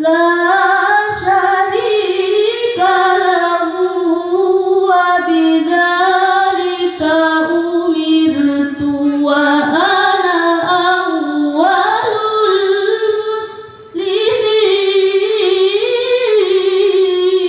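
A woman reciting the Quran in the melodic tilawah style, unaccompanied: long, ornamented held phrases that rise and fall in pitch, with one short pause for breath about three quarters of the way through.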